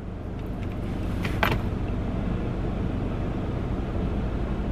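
Car engine idling with a steady low rumble that grows a little louder over the first second. There is a single short click about one and a half seconds in.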